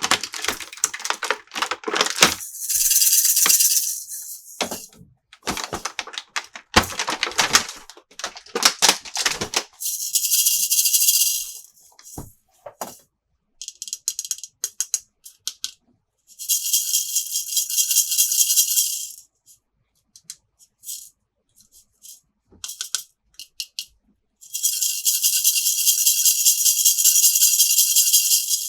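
Plastic playset pieces and packaging being handled, with bursts of quick clicks and taps. Four times a steady, high-pitched rattle runs for two to four seconds, the last and longest near the end.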